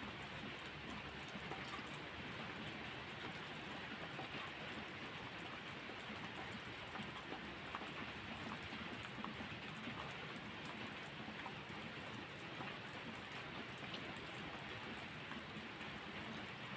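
Steady rain falling on a surface, with many small drop ticks scattered through an even hiss.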